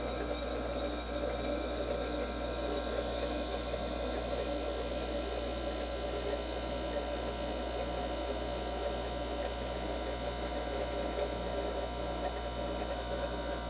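Window air conditioner running, its Toshiba rotary compressor and fan giving a steady hum. The unit is cooling properly.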